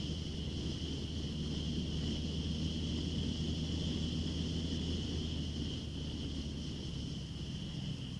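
Honda CBR650F's inline-four engine running at steady low revs through an Akrapovic full exhaust system, its pitch shifting slightly now and then, with a steady high-pitched whine over it.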